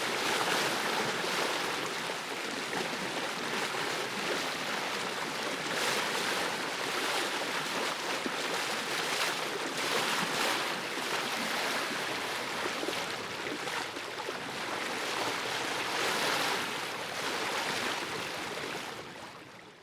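Ocean surf washing on a beach: a steady hiss of breaking waves that swells every few seconds, fading out near the end.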